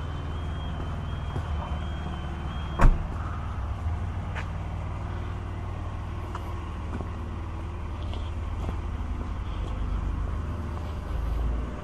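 Car engine idling with a steady low exhaust rumble. A thin high tone stops with a single sharp knock about three seconds in, and the rumble swells briefly near the end.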